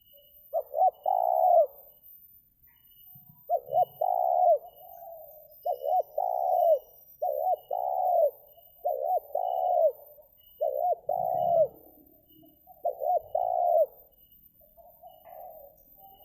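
Spotted dove cooing: seven loud phrases, each two or three quick notes running into a longer rolling coo, about every one and a half seconds, with softer coos near the end.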